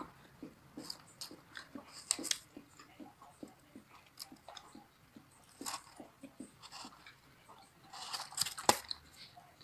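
A person chewing and biting into a fried chicken drumstick glazed with sweet-spicy honey sauce: a scatter of small crunches and wet mouth clicks, busiest near the end.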